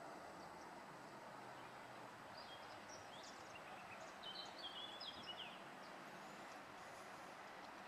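Faint steady hiss of station ambience. A small bird chirps a quick run of short, high calls from about two and a half to five and a half seconds in.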